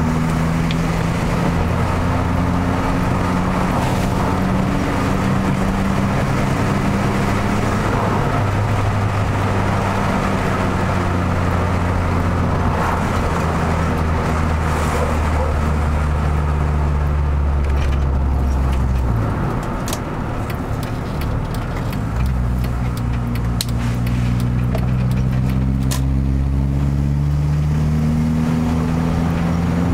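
Car engine heard from inside the cabin while driving, its note shifting up and down. It eases off about two-thirds through, then picks up again and rises in pitch near the end.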